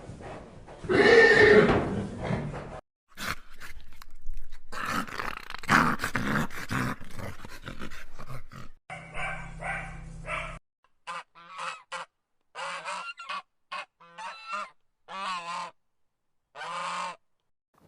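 A run of different animal sounds cut one after another, ending in a string of about ten short honking calls from waterfowl, each a brief pitched call with silences between.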